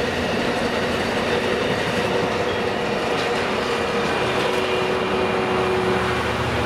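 Train of ballast hopper wagons rolling past with steady wheel-on-rail noise, then the trailing Freightliner Class 66 diesel locomotive passing, its two-stroke V12 engine growing louder from about five seconds in.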